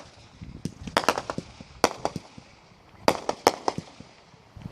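Fireworks going off: irregular sharp bangs and pops, bunched in quick clusters about a second in and again around three seconds in.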